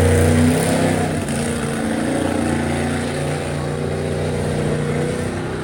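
Monster truck engine revving, loudest in the first half second, then easing off and running steadily.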